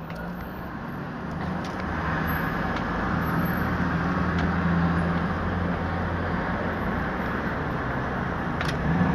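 Road traffic: a steady rush of vehicles with an engine's low hum, which fades about seven seconds in.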